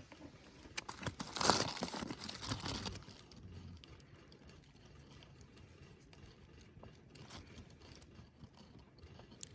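Crinkling and crunching handling noise, densest from about one to three seconds in, then faint scattered clicks.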